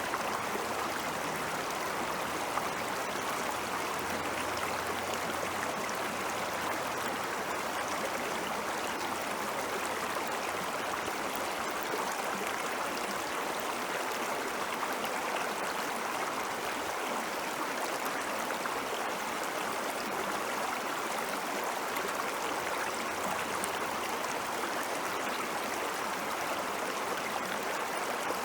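Ice-melt stream water flowing steadily over rocks, a constant rushing babble with small splashes and gurgles.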